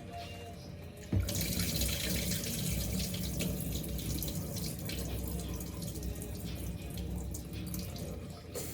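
Water running steadily in a rushing stream, starting abruptly about a second in.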